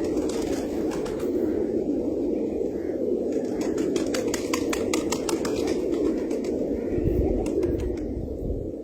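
A flock of farm birds calling together in a steady din, with many sharp clicks scattered through it.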